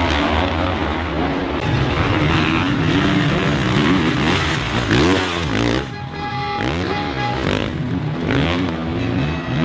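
Four-stroke 450cc motocross bike engines revving hard, their pitch rising and falling again and again as the bikes accelerate, shift and back off.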